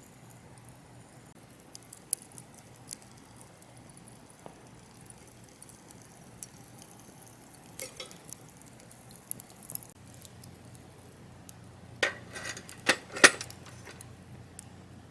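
Scattered light clicks, then three sharp metallic clinks about twelve to thirteen seconds in, as of the parts of a small steel folding camp stove being handled.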